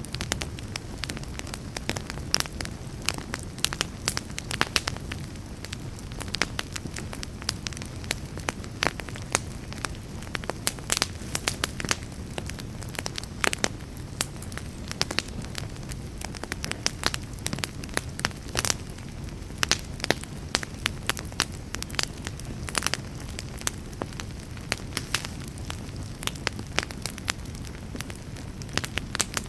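Wood campfire crackling, with frequent irregular sharp pops and snaps over a low steady rush.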